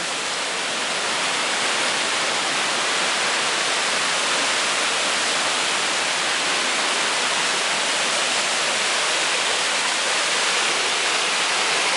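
Mountain creek water rushing over rocks and small cascades: a steady, loud hiss of running water.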